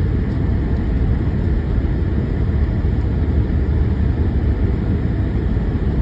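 Steady low rumble of a four-wheel-drive vehicle driving on an icy road: engine and tyre noise, level throughout.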